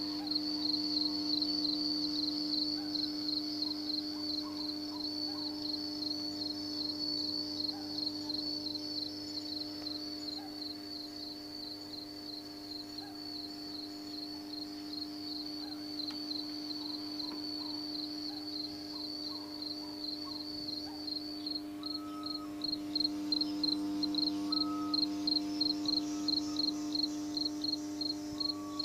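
A cricket chirping in a steady, regular high-pitched pulse, about three chirps a second near the end, over a steady low electrical hum.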